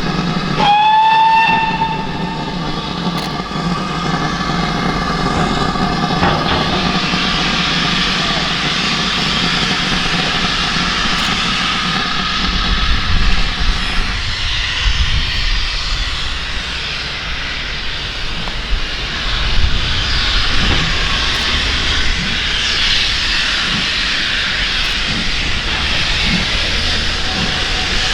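Steam locomotive whistle sounding about half a second in, its pitch rising slightly as it opens. Steady hissing of steam follows, with a low rumble joining about halfway through.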